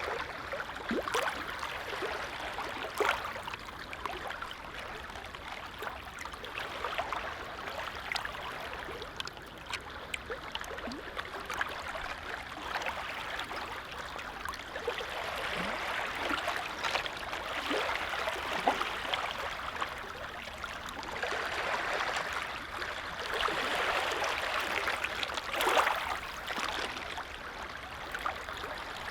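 Small waves lapping at the shore of a calm lake, a steady wash of water with many small splashes and gentle swells in loudness.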